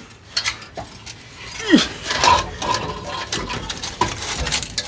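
Metal clinking and knocking as a small ATV muffler and its pipe are worked onto a car's exhaust pipe, with a short falling squeal nearly two seconds in and brief ringing after it.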